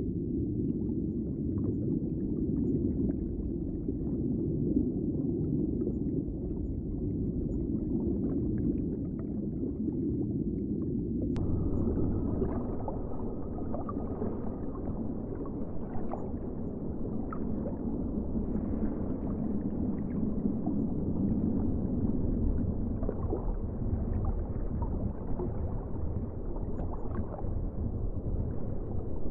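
Underwater ambience: a steady, muffled low noise with no clear calls. About eleven seconds in there is a sudden click, and the sound changes to a brighter texture.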